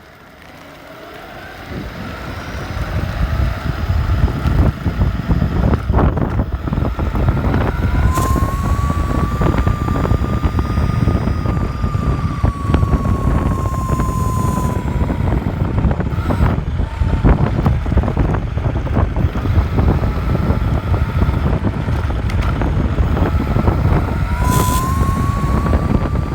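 A high-pitched whine over loud rumbling noise that builds up in the first few seconds. The whine rises in about eight seconds in, holds, then slowly falls away, and rises again near the end.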